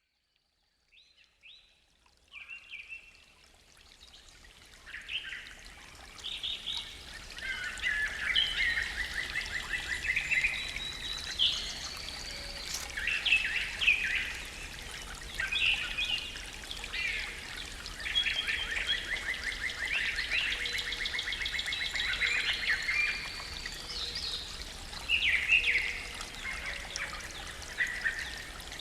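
Morning forest birdsong: several songbirds singing over one another in chirps, whistled phrases and rapid trills. It fades in from silence over the first few seconds, with a faint low steady rumble underneath.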